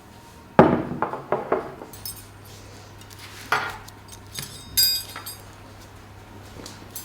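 Dishes and glassware being handled: a sharp knock and a few quick clatters, then ringing clinks of glass or china, once about three and a half seconds in and again in a cluster near five seconds. A low steady hum starts about two seconds in.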